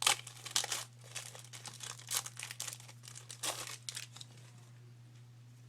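Trading-card pack wrapper and cards being handled, crinkling in several short bursts that stop about four seconds in, over a steady low hum.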